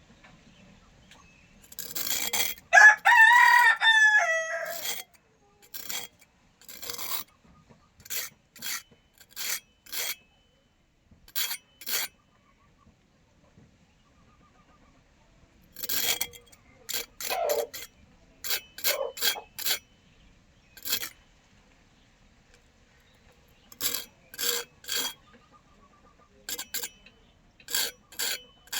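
A rooster crows once, a few seconds in. Then short rasping scrape strokes follow in irregular runs, as of something being filed or scraped by hand.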